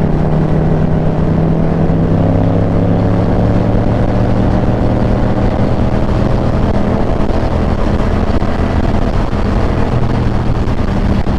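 Yamaha XSR700 motorcycle's parallel-twin engine running at a steady cruise, its note holding a nearly constant pitch, under a rush of wind noise.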